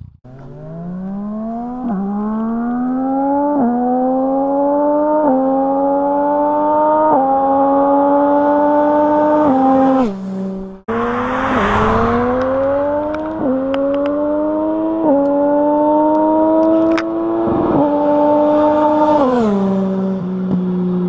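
Yamaha MT-09 SP three-cylinder engine through an Akrapovic exhaust, accelerating hard up through the gears: the pitch climbs and drops back at each upshift. This happens in two runs, and it eases off near the end to a lower steady note.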